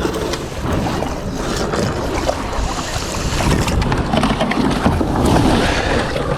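Wind buffeting an action camera's microphone with a steady low rumble, over water splashing and small knocks around a kayak as it comes in to land.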